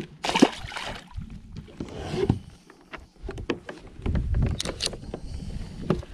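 Handling noises on a fishing kayak: scattered clicks and knocks against the hull and gear, with a short rushing noise about half a second in and another about two seconds in.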